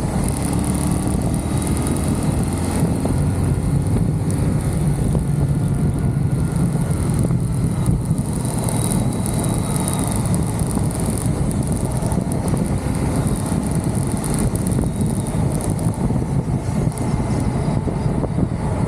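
Motorcycle engine running steadily while riding, mixed with a steady rush of wind and road noise.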